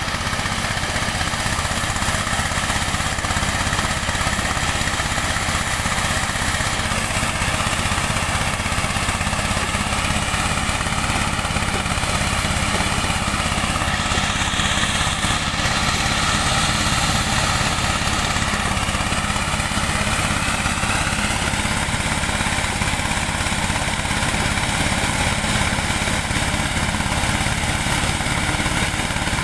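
Engine-driven corn sheller running steadily, with slight shifts in pitch partway through.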